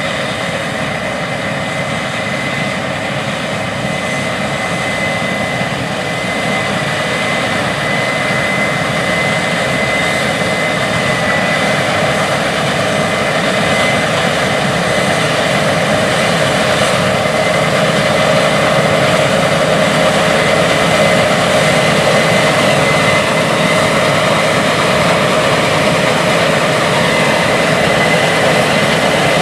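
Big Case IH harvest machinery at work in a wheat field: a steady, dense engine and threshing drone with a high steady whine over it, growing gradually louder.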